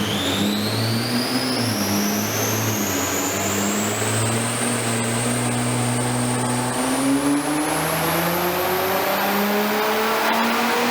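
Nissan GT-R R35's twin-turbo V6 running under load in a long, steady pull, likely a dyno power run. The engine note and a high whine both rise slowly and evenly in pitch.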